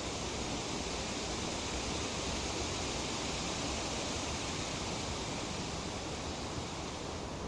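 Light wind rustling through tree leaves, a steady, even hiss.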